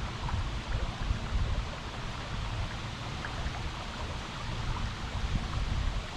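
River water flowing: a steady rushing hiss with an uneven low rumble underneath.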